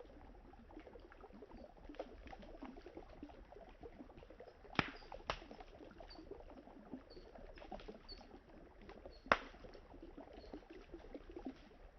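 Campfire burning wood with a soft steady crackle and three sharp pops: two close together about five seconds in, and one about nine seconds in. A river's water runs low underneath.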